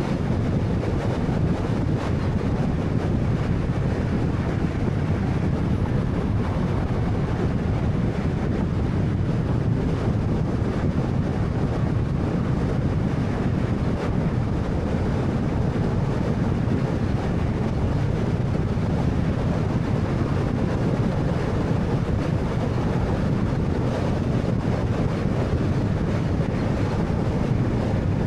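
Car driving at a steady speed: a constant rush of tyre and road noise with a low engine hum underneath.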